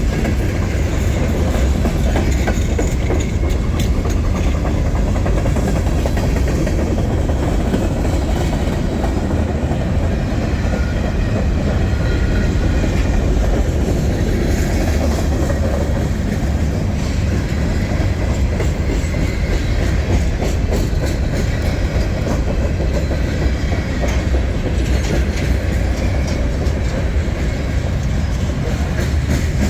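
Freight train cars rolling past: a steady rumble of steel wheels on rail with a clickety-clack over the rail joints.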